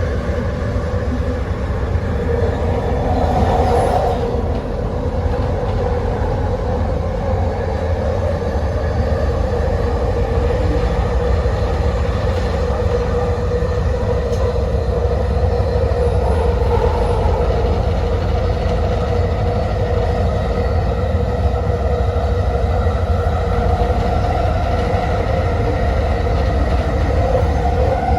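Elevated rapid-transit train running at speed, heard from inside the rear car: a steady low rumble with a constant whine from the wheels and motors, swelling briefly about four seconds in.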